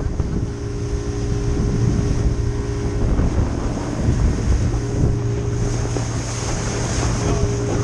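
A small boat's motor running steadily under way, a constant low hum with a few higher tones that fade in and out, with wind buffeting the microphone and water rushing past.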